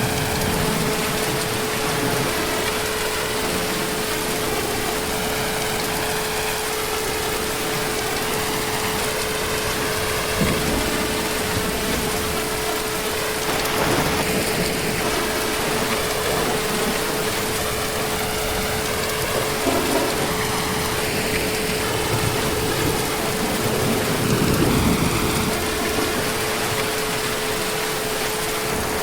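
Heavy rain falling steadily in a dense, even hiss, with a few brief low rumbles of distant thunder, the longest near the end. A steady low hum runs underneath.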